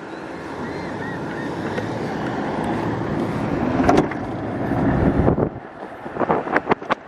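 Wind rushing over the microphone of a moving e-bike rider, building over the first few seconds, with a few sharp clicks near the end.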